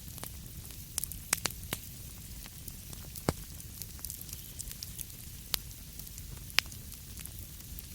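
Wood fire crackling in a fireplace: sharp, irregular pops and snaps over a steady low rumble and soft hiss.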